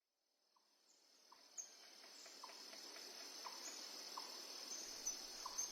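Crickets chirring in a steady high trill, with a few short chirps from other creatures scattered through it, fading in from silence over the first couple of seconds.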